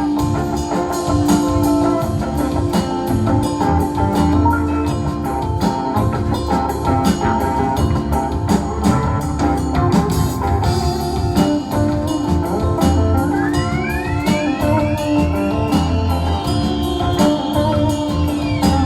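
Live rock band playing through a theatre PA, with electric guitar and drum kit. Near the end a high note slides up and is held.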